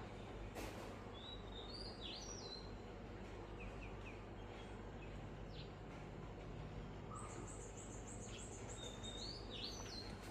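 Bird singing: a short phrase of whistled notes sliding up and down, then a quick high trill, then the same phrase again near the end, over a faint steady background noise.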